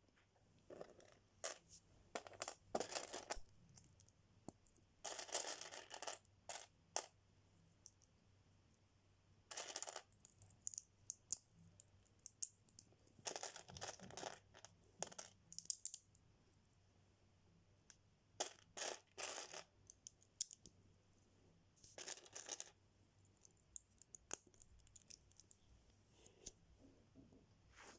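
Small plastic Lego pieces clicking and clattering as they are handled, with some rustling of plastic, in short bursts separated by quiet pauses.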